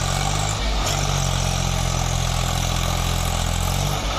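Swaraj 744 tractor's three-cylinder diesel engine running at steady revs, with a brief shift in pitch under a second in and a drop in engine note near the end.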